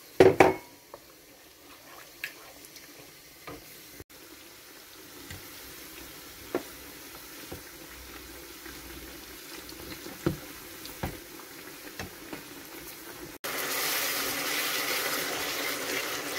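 Plantain slices frying in hot oil, a faint steady sizzle with scattered light taps of a slotted spatula. Near the end a louder, denser sizzle as a tomato sauce with added water bubbles in a wok and is stirred with a wooden spoon. A short knock of a utensil against the pan right at the start.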